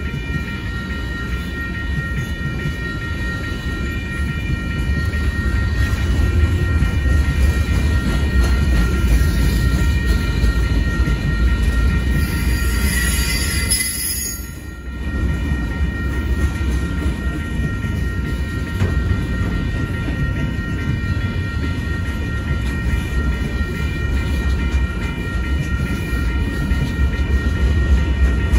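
Freight cars of a Union Pacific train rolling through a grade crossing with a steady low rumble of wheels on rail, while the crossing bell rings steadily throughout. A brief high-pitched wheel squeal comes around the middle, followed by a short dip in the noise.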